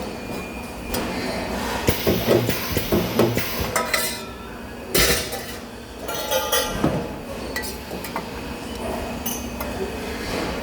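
Metal parts clinking and knocking together as they are handled at spot-welding work, with one brief loud burst of noise about five seconds in.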